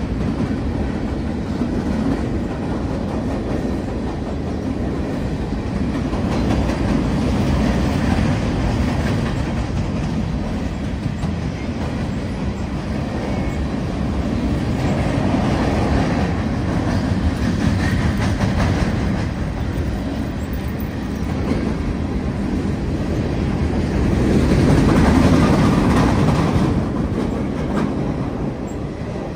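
Freight cars rolling across a steel truss railway bridge: a steady heavy rumble with the clatter of wheels over rail joints, swelling to its loudest a little before the end.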